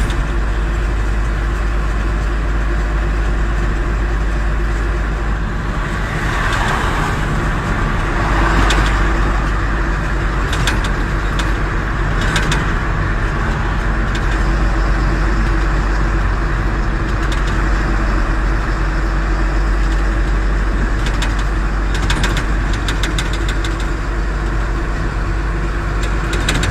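Truck engine running steadily with a deep low rumble and a constant hum, with a few sharp clicks scattered through.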